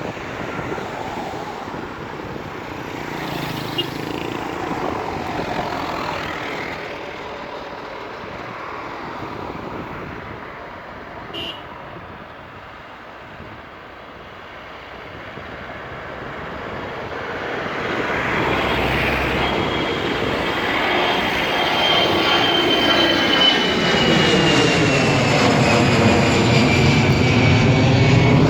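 Jet airliner's engines during takeoff, a loud rushing noise that swells louder over the last ten seconds, with a high engine whine sliding slowly down in pitch as the plane passes.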